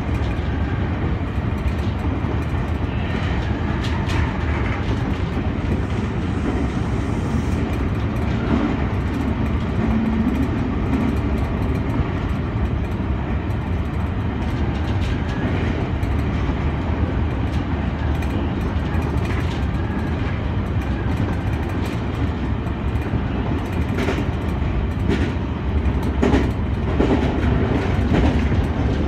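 Senboku Rapid Railway 7020 series electric train running along the track, heard from the driver's cab: a steady rumble of wheels on rail with occasional sharp clicks.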